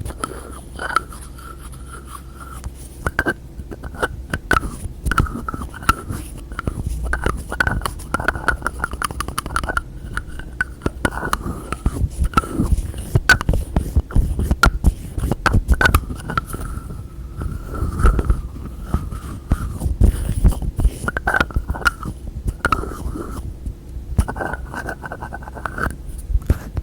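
Close-up fingernail and finger tapping on hard containers and their lids, quick irregular clicks with a ringing note that sounds with many of the taps, mixed with scraping and low thuds as lids are handled.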